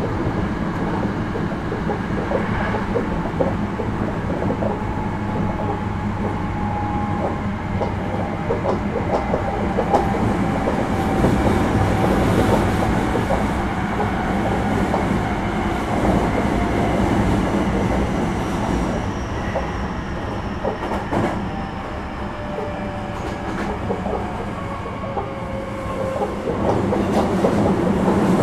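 Hankyu 9300 series electric train running, heard from inside the car: a steady rumble of wheels on rail with scattered joint clicks. A faint whine slowly falls in pitch through the middle, and the noise grows louder near the end.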